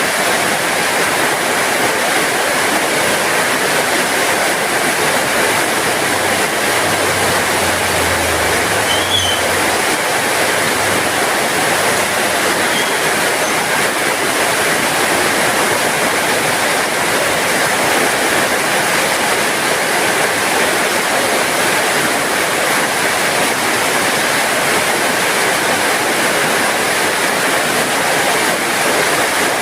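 Heavy rain falling steadily, an even, unbroken hiss. A faint low rumble sits underneath for a few seconds about a quarter of the way in.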